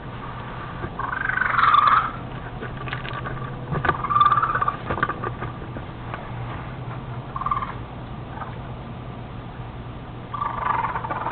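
An animal calling in short bursts of about a second, four times a few seconds apart, over a steady low electrical hum, heard through a security camera's narrow-band microphone.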